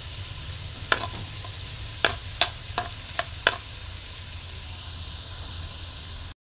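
Pork, garlic and onion sizzling in a metal wok, with a metal spatula clinking against the pan six times in the first few seconds as the onion is stirred in. The sound drops out briefly just before the end.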